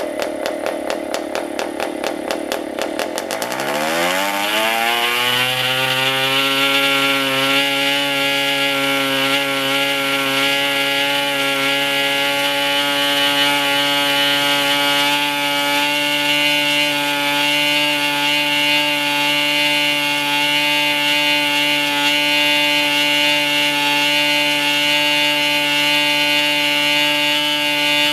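PAW 40 TBR two-stroke model diesel engine idling with a slow, distinct firing beat. About three and a half seconds in it is opened up, and its pitch climbs over several seconds. It then settles into a steady high-rpm run as it comes back to full speed after a long idle.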